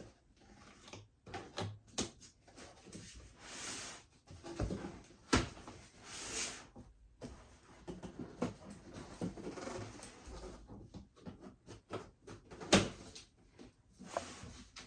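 Sewing machine being unboxed by hand: cardboard and plastic packaging rustling and scraping, with many small knocks and two sharp thumps, about five seconds in and near the end.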